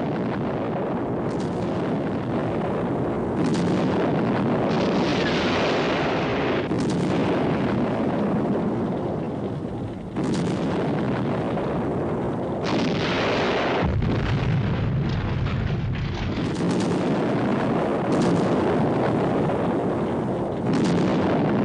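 Film sound effects of a missile base blowing up: a continuous rumble of heavy explosions, with a new blast breaking in every couple of seconds.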